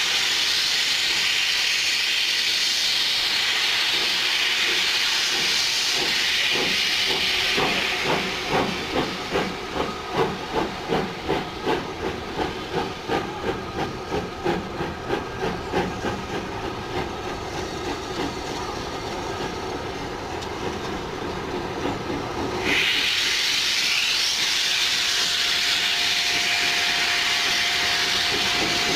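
Steam locomotive: a loud hiss of escaping steam, then exhaust beats at about two a second that fade away over roughly ten seconds. The hiss starts up again suddenly about two-thirds of the way through.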